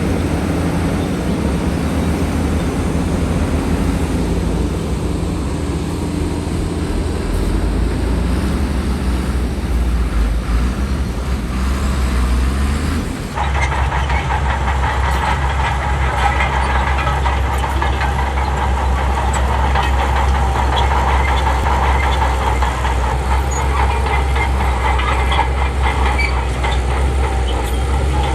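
Heavy diesel earthmoving machinery running steadily, its engine note rising about ten seconds in. About halfway through, the sound changes abruptly to a louder clatter with a strong whine.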